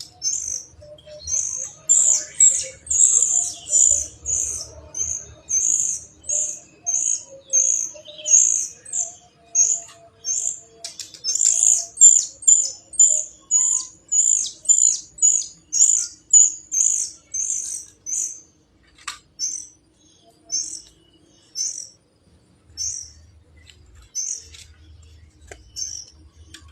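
A kapas tembak songbird chirping over and over: short high notes at about two a second, spacing out into separate chirps with pauses after about eighteen seconds.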